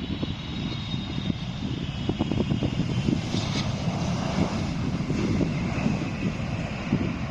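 Jet airliner engines: a steady rough rumble with a faint high whine.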